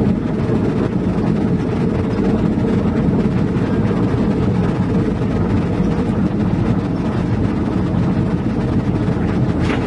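Heavy diesel engine running steadily with a low rumble, a faint steady whine above it, and a single knock near the end.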